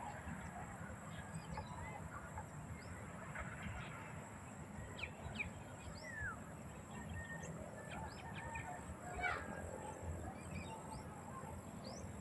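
Many birds calling at once: short, scattered chirps and quick sweeping calls over a steady low background rumble.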